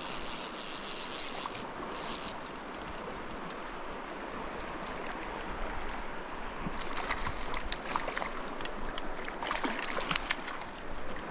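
Mountain stream water running steadily over rocks. Brief clusters of quick clicks and rustles come in at the start and again in the second half.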